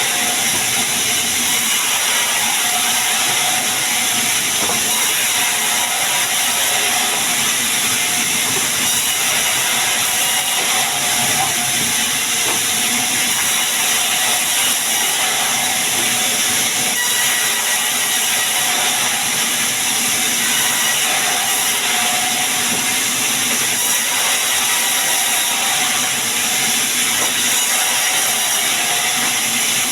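Sawmill saw running with a constant loud hiss and faint steady tones underneath.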